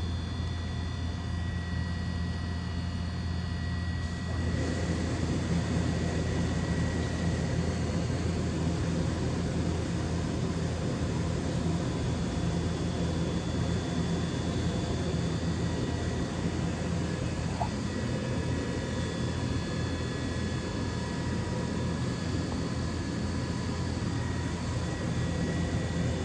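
DMG Mori DVF 5000 five-axis CNC machining center running: a steady hum with a faint high whine, getting louder and noisier about four seconds in.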